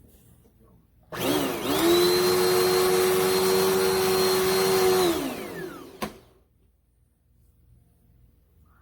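Dirt Devil Endura Lite upright vacuum cleaner switched on about a second in: the motor comes up to speed with a brief dip in pitch, runs steadily with a whine, then is switched off about five seconds in and winds down with a falling whine. A single click follows at about six seconds.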